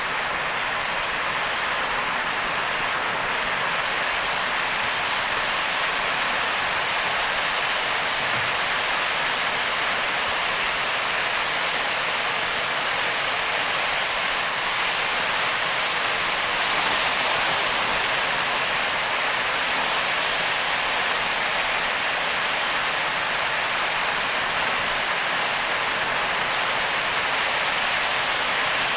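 Heavy rain and road spray on a car driving at speed: a steady, dense hiss, briefly louder twice in the middle.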